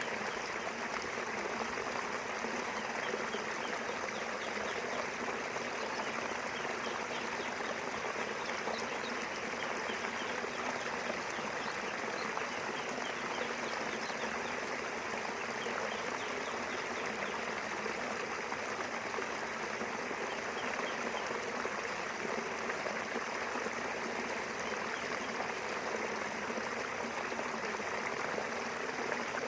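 River water flowing in a steady, even rush, with faint high chirping in the background.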